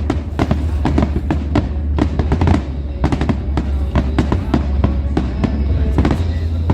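Fireworks barrage: a rapid, continuous run of aerial shell bursts and crackling reports, several a second, over a deep rumble.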